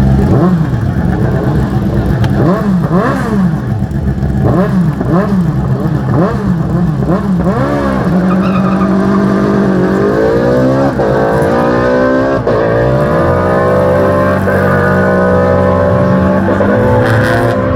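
Hillclimb race car engine at full throttle, its pitch rising and dropping sharply again and again through quick gear changes, then climbing steadily at about ten seconds and holding high with several short dips at upshifts. A steady low engine drone runs underneath.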